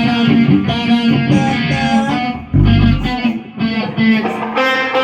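Electric guitar playing the song's repeating base riff in note patterns, with a deep low hit about two and a half seconds in.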